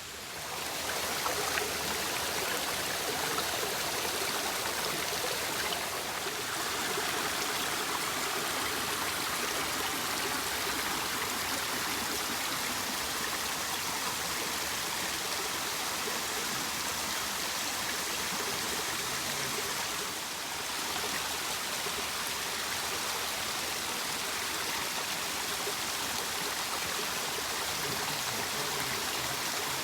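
Waterfall on a woodland creek: a steady, even rush of falling and splashing water.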